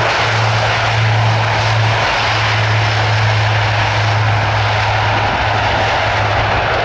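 Airbus A400M's four TP400 turboprop engines running steadily: a strong, steady low propeller tone over a broad engine noise, with the low tone weakening near the end.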